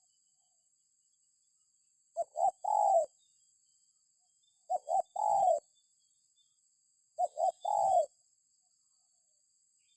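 Spotted dove (tekukur) cooing: three phrases a couple of seconds apart, each two short coos followed by a longer coo that falls in pitch.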